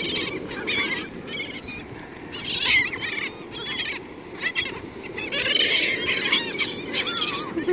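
A flock of seagulls calling over one another, many short overlapping squawks and cries, over a steady wash of surf.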